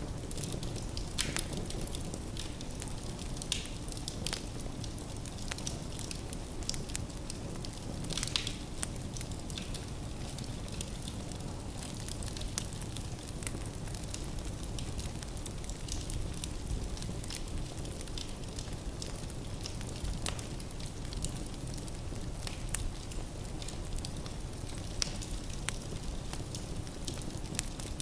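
Firewood burning in a fireplace: a steady low rumble of flames with frequent irregular crackles and pops from the logs, a few of them sharper and louder.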